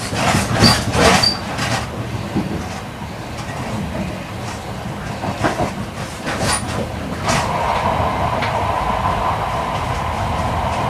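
Running sound of an E8-series Shinkansen train heard from inside the car: a steady rumble with sharp clicks of the wheels over rail joints. About seven seconds in, a steady higher hum joins the rumble and holds.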